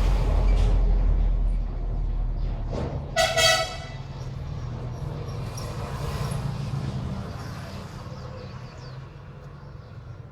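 A heavy vehicle rumbles past. A short horn toot sounds about three seconds in, then the traffic noise fades away.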